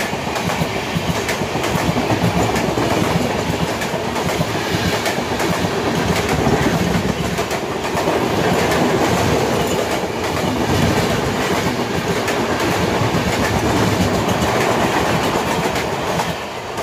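Two trains passing each other: the coaches of an Indian Railways passenger train rush by close alongside on the next track with a loud rushing din and clickety-clack of wheels, under the running noise of the train being ridden. The din drops near the end as the passing train's last car goes by.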